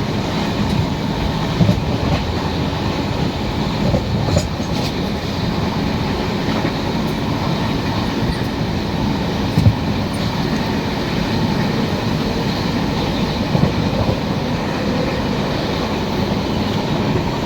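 Moving train running on the track: a steady rumble of wheels and carriage, broken by a few short knocks, the loudest a little under ten seconds in.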